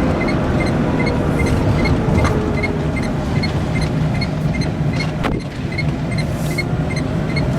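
Renault Twizy electric car driving: steady road and motor noise with a faint whine that sinks slightly in pitch, and a light regular ticking about three times a second.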